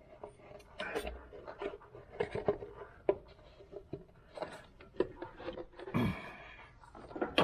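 Scattered light clicks, taps and rustles of hands handling parts and tools, with a brief falling squeak about six seconds in.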